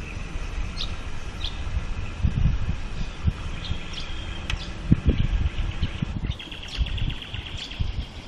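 Birds chirping and trilling, with repeated trills and short chirps, over irregular low rumbling thumps.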